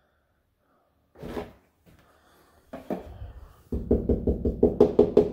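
Knuckles rapping on a drywall wall, starting a little past halfway, about four quick knocks a second with a hollow ring: sounding out where the stud is, since the stud finder reads the whole wall as a stud. A single soft bump comes about a second in.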